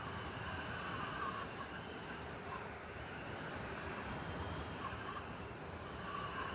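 City blizzard ambience: a steady wind-driven hiss with a low rumble underneath, like distant traffic, and a few soft swells in the wind.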